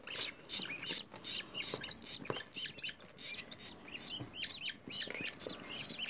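Budgerigars chirping: a steady run of many short, high, overlapping calls, with a few light clicks among them.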